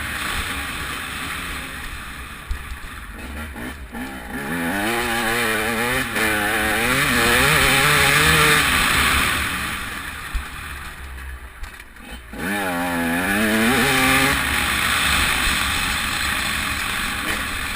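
TM 300 two-stroke motocross bike's single-cylinder engine running hard, its pitch climbing and dropping several times under throttle, with heavy wind rush on the microphone. The engine goes quieter around eleven seconds in, then picks up again.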